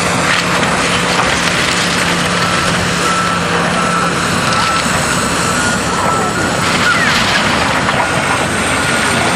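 Reversing alarm of heavy demolition machinery beeping over and over, over the steady noise of diesel machinery working and debris being crushed.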